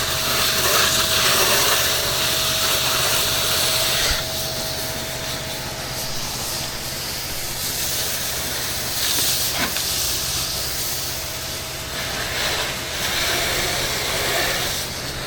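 Pressure-washing spray hissing over the steady drone of the rig's engine. The spray is loudest for the first four seconds, then eases off and surges again a few times.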